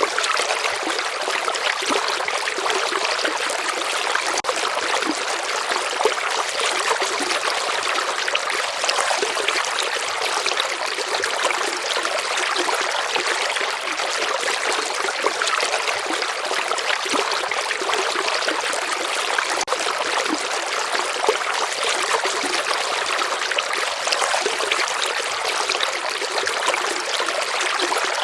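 Steady flowing stream water, a constant rushing and trickling with no let-up.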